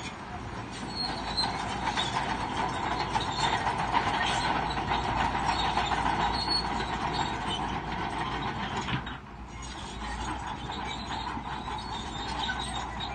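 Crawler bulldozer working: its steel tracks clank and squeal continuously over the engine's running. The sound drops briefly about nine seconds in.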